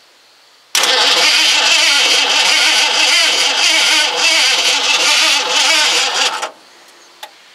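Starter cranking the freshly rebuilt V8 of a 1986 Ford F150 for about six seconds without it catching, then cutting off abruptly. The owner suspects a weak or dead battery.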